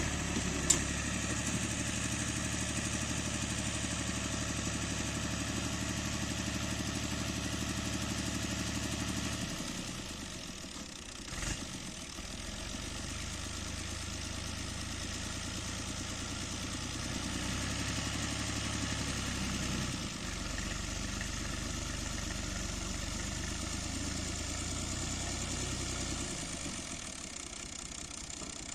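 Ghazi 65 hp tractor's diesel engine running steadily, dropping in level about ten seconds in and shifting in speed a few more times, with a sharp click near the start.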